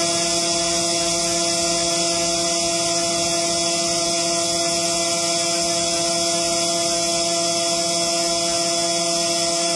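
CNC engraving machine running: a steady hum of several fixed pitches under a high hiss.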